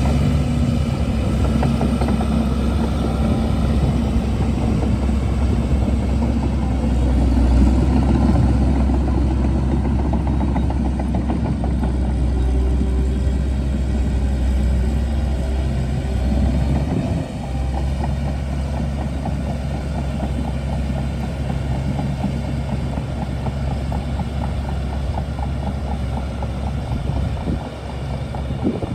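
Shantui DH17C2 bulldozer's diesel engine running steadily and loud, with a brief dip about two-thirds of the way through and another near the end.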